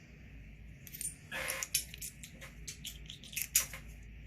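Metal hand tools (sockets, wrenches, an impact driver) being picked up and handled: a run of irregular metallic clicks and clinks, the sharpest about three and a half seconds in.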